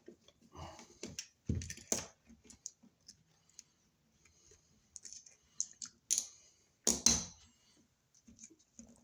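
Irregular clicks and scrapes of hand tools and a wall receptacle being handled as it is taken out of its box for inspection, with the sharpest clatter about six and seven seconds in.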